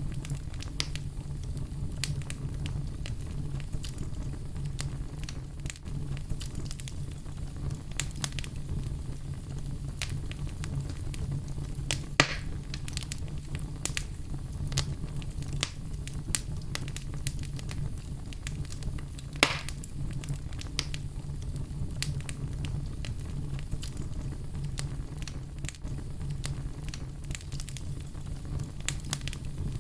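Wood fire burning in a fireplace: a steady low rumble of flames with scattered crackles throughout and two louder sharp pops, about 12 and 19 seconds in.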